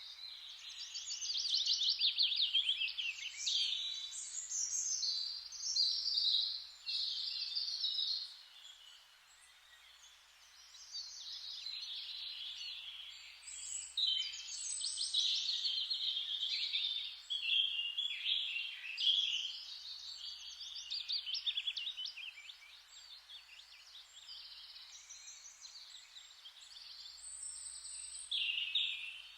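Forest ambience: several songbirds singing overlapping trills and chirps over a steady hiss, with a brief lull in the birdsong about a third of the way through.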